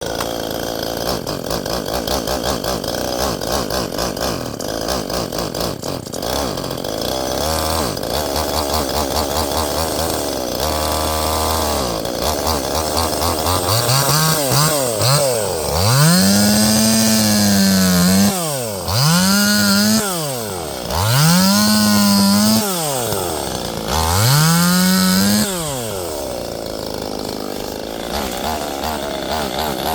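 Small Zenoah two-stroke chainsaw running on test after repair of a no-start fault: it idles steadily, then from about halfway is revved to high speed five times, each rev held a second or two before dropping back, and it settles back to idle near the end.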